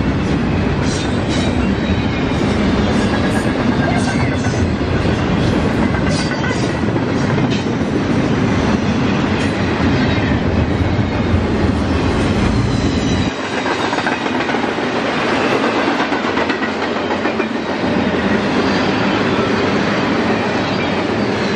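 Double-stack intermodal freight train rolling past, its steel wheels rumbling and clattering over the rails.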